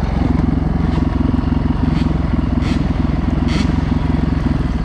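Enduro dirt bike engine running steadily under way, with a few brief scuffing noises about two, two and a half and three and a half seconds in.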